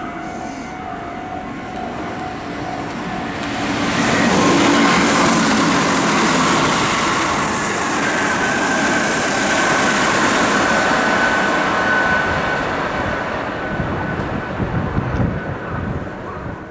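Kintetsu electric train running along the station platform: a loud rush of wheels and motors that builds about four seconds in and holds for about ten seconds before easing off. A steady high tone rides over it for several seconds in the middle.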